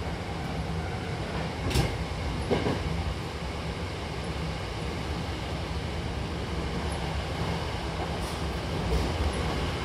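Hankyu Imazu Line commuter train running, heard from inside the car: a steady low rumble of the moving train, with a few sharp clicks about two seconds in and again near the end.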